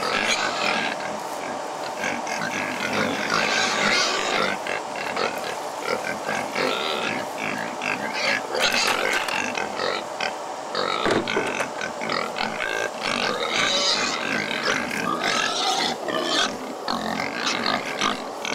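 A group of pigs squealing and grunting, many overlapping calls with no break.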